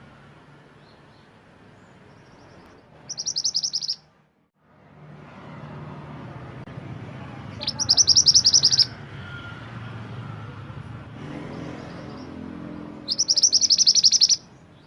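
Mantenan gunung songbird singing short phrases of rapid, repeated high chirps, three times, each lasting about a second. Between the phrases there is a steady low background noise, which drops out briefly once.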